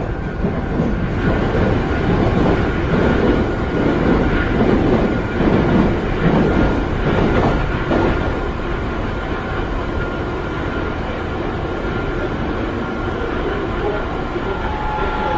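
Meitetsu commuter train running at speed, heard from inside the carriage: a steady rumble of wheels on rail that is louder for a few seconds in the middle, then eases slightly.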